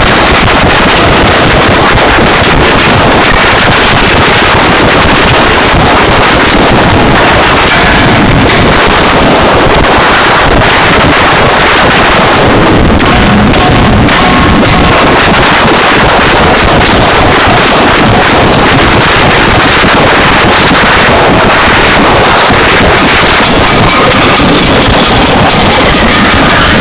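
Harsh noise music: a dense, heavily distorted wall of static filling every pitch from low to high, loud and unbroken, with a few faint high whistling tones surfacing near the end.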